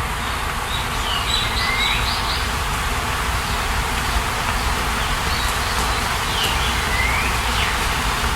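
Steady rain, with a bird singing short sweeping whistled phrases twice: about a second in and again about six seconds in.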